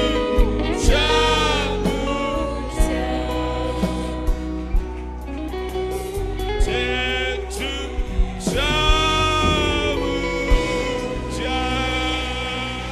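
Gospel song: a singing voice over instrumental backing with a steady bass line and scattered drum hits.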